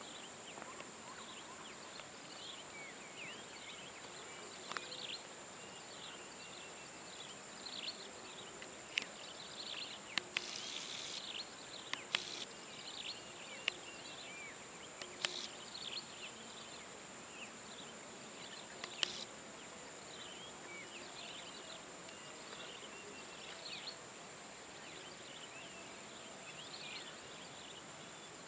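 Natural outdoor ambience: insects keep up a steady high drone while birds make many short, quick chirps over it, with a few sharp clicks scattered between them.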